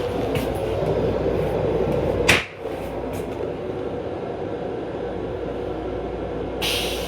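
Steady rumble inside a moving M7 electric railcar. A sharp clack about two seconds in is followed by a quieter rumble, and a short hiss comes near the end.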